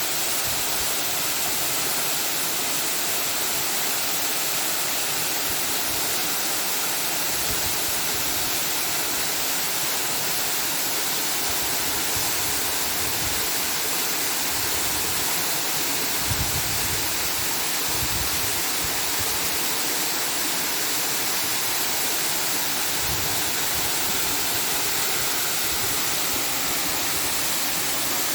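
Steady, even rushing noise with no break, strongest in the upper range, with a few brief low rumbles about two-thirds of the way through.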